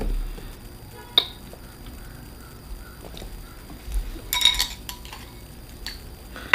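Mouth and tableware sounds of someone eating a seafood meal: a sharp click about a second in and a short cluster of clinks a little past the middle, over quiet chewing.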